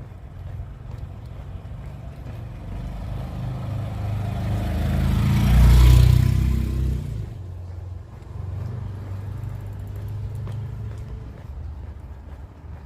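A car passes close by on a wet street. Its engine rumble and tyre hiss build to a peak about six seconds in, then drop away quickly, leaving a lower engine rumble.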